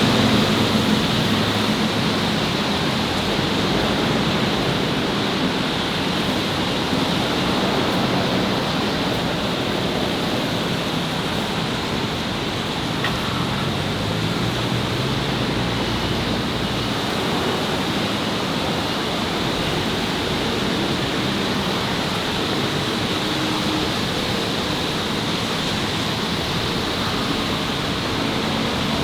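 Steady city street noise: a continuous wash of traffic hiss with a faint low engine rumble underneath.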